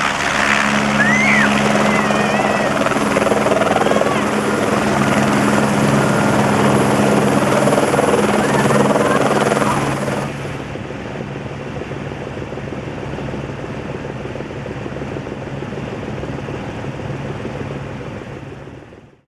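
Helicopter turbine and rotor running, a loud steady drone, with a few shouting voices in the first few seconds. About ten seconds in the sound drops abruptly to a quieter, duller level.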